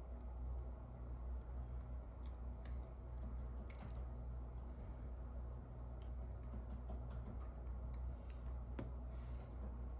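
Faint, irregular small clicks and ticks from a camera lens being handled and worked on, over a steady low hum.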